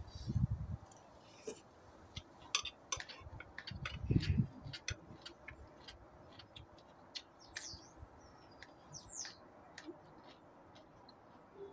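Short crisp clicks of chewing fresh vegetables, with birds chirping in the background. Two low muffled thuds come at the start and about four seconds in.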